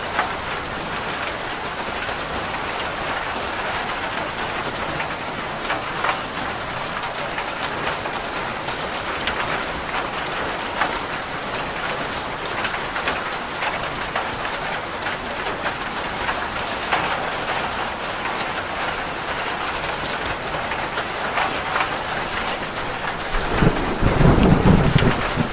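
Steady rain falling on a roof, with many individual drops ticking. A low rumble of thunder starts near the end.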